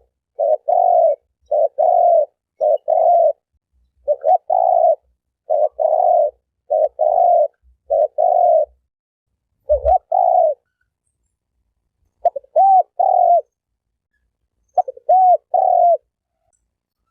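Spotted dove cooing: a run of short, mostly two-part coos repeated about once a second, with a couple of brief pauses in the second half.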